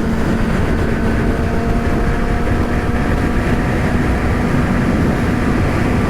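Yamaha R6's inline-four engine holding a steady cruise, its even drone half-buried under loud, continuous wind rush on the microphone.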